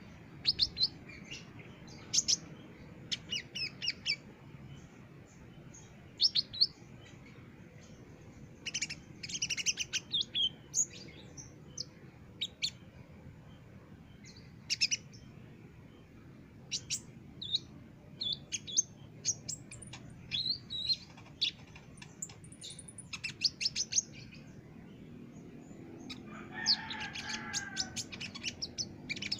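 Kolibri ninja (konin) sunbird singing actively, in quick bursts of high, sharp chirps separated by short pauses. Near the end a lower, fuller call comes in under the chirping.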